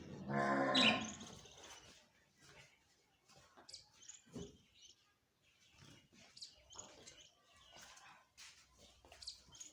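Parrot calling: one loud, drawn-out call in the first second or so, then soft, scattered chirps and clicks.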